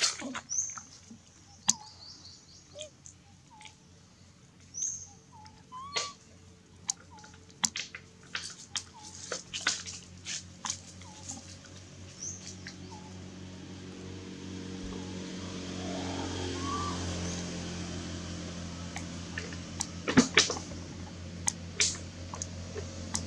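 Scattered short bird chirps and tweets among sharp clicks, over a low hum that builds up from about halfway through, like an approaching vehicle's engine.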